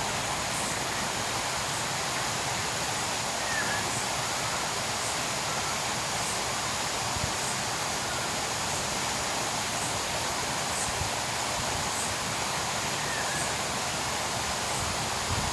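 A small stream running with a steady rush of water. Faint high ticks come about once a second, and two faint short chirps come once early and once near the end.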